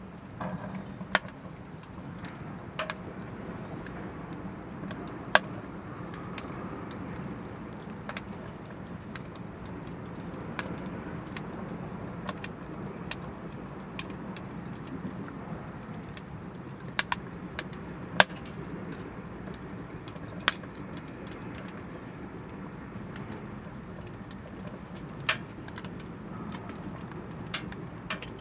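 Oak firewood burning in an Anevay Frontier Stove Plus wood stove: irregular sharp crackles and pops, a few seconds apart, over a steady low rush of the fire.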